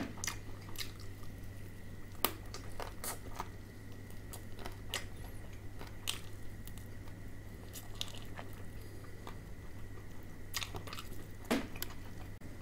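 A person biting and chewing crispy KFC Hot & Crispy fried chicken: irregular crunches of the fried coating throughout, with two louder crunches about two seconds in and near the end. A faint steady hum runs underneath.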